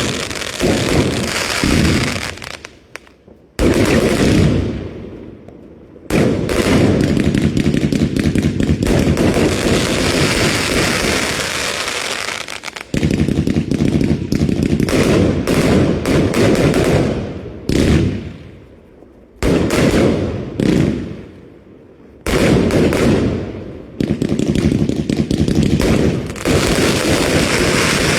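Fireworks going off in repeated bouts. Each bout starts suddenly, with dense bangs and crackling lasting a few seconds before it fades, and there are about five in a row with short lulls between.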